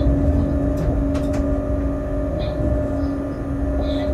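Freight train running steadily along the track, heard from the driver's cab: a constant low rumble with a steady hum and a few faint clicks about a second in.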